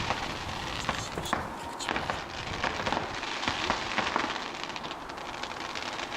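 Fireworks going off: a quick, irregular run of bangs and crackles, many in each second, over a steady rushing noise.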